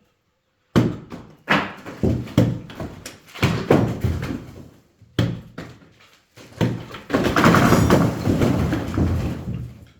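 A plank of timber striking the top of a cracked wall, a run of sharp thuds about half a second apart, then the wall section giving way, with a sustained crash of falling masonry and rubble from about seven seconds in.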